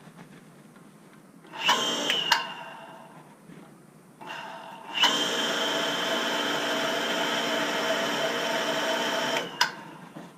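Electric water well pump motor running with a steady hum and whine. It starts briefly just before 2 s, then runs again from about 5 s and cuts off abruptly near 9.5 s.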